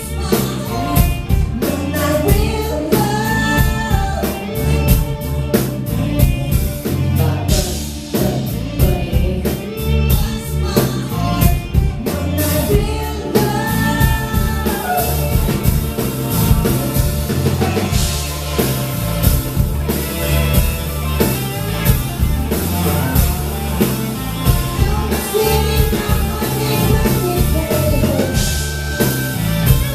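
Live concert music: a pop-rock band backing with drum kit, bass and electric guitar, with a male voice singing over a steady beat.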